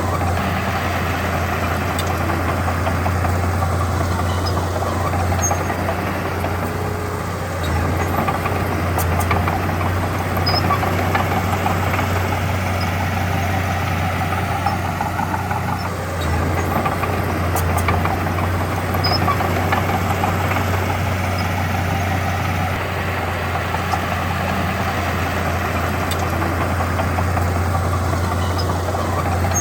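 Diesel engine of heavy earthmoving equipment running steadily, with a constant low hum and only small rises and dips in level.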